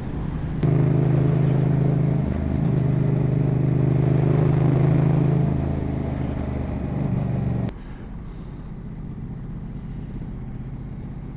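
Motorcycle engine running at a steady, low engine speed while riding, dipping briefly a couple of seconds in. About three-quarters of the way through it cuts off suddenly to a quieter low engine hum with road and wind noise.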